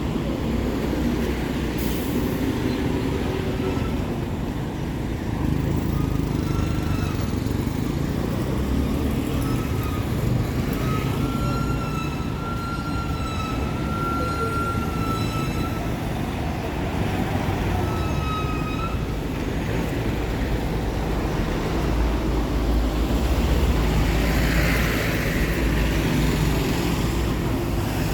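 Street ambience dominated by the steady low rumble of traffic. A high-pitched squeal sounds several times in the middle, the longest lasting about four seconds.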